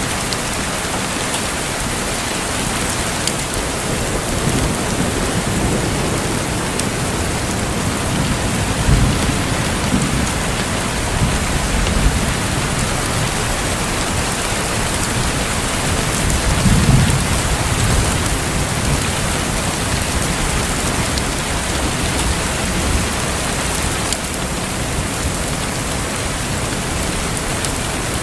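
Rain falling steadily, with thunder rumbling low beneath it, swelling twice: around a third of the way in and again a little past the middle.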